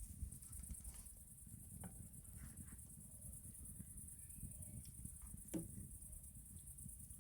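Crickets chirping in a steady, high-pitched trill over a low background rumble, with a few faint clicks and one sharper click about five and a half seconds in.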